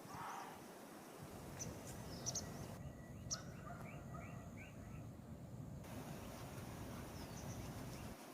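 Birds chirping over a steady outdoor background hiss, with a quick run of about five repeated notes in the middle.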